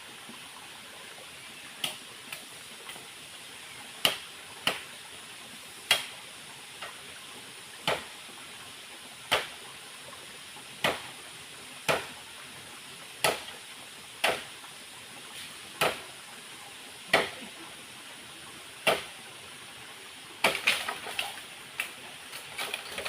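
Single chopping strikes of a blade into wood, about one every second or so, then a quick run of lighter strikes near the end, over the steady rush of a nearby waterfall.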